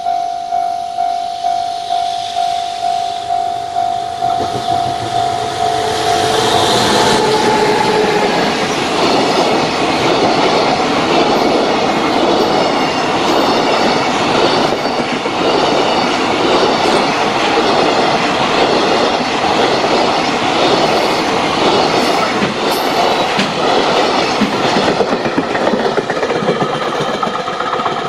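A Japanese level-crossing bell rings about twice a second. From about six seconds in, a JR Freight container train passes close by, its wagons clattering over the rail joints and drowning out the bell. The bell comes through again near the end as the last wagons clear.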